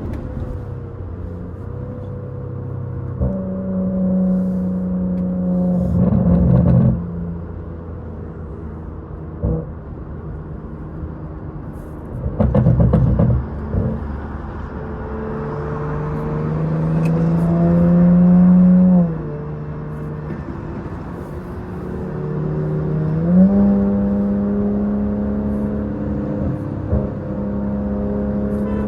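Straight-piped, catless exhaust of a BMW 540i's turbocharged B58 inline-six running, its drone holding steady and stepping up and down in pitch with engine speed. About halfway through it climbs steadily in pitch and loudness for a few seconds, then drops off suddenly, and two short loud blasts of noise come near the start and about a third of the way in.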